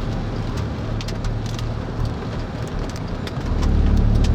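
Rain striking a car in scattered sharp ticks over a steady low rush of wind and vehicle noise, the rumble swelling near the end.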